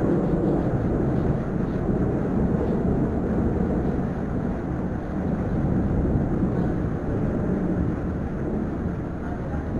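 Thunder rolling in a long, low rumble that eases slightly near the end.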